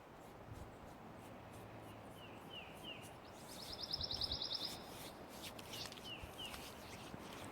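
Faint birdsong: repeated short downward-sliding chirps and, about halfway through, a rapid high trill lasting about a second.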